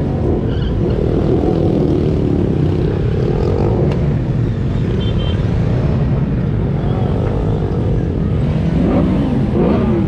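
Motorcycle engines running steadily, with their pitch rising and falling as bikes rev and pass, most clearly near the end.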